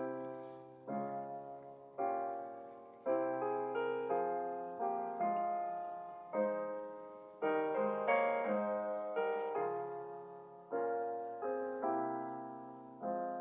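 Intro music: slow piano chords, each struck and left to ring and fade before the next.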